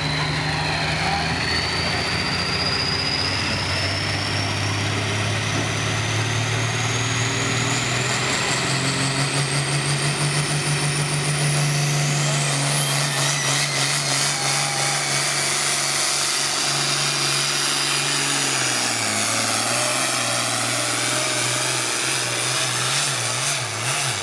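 Diesel pulling vehicle running at full power down the track, its engine note held steady, with a high whistle typical of a turbocharger climbing slowly in pitch through the first half. About 19 seconds in, the engine note drops and wavers, and the sound falls away near the end.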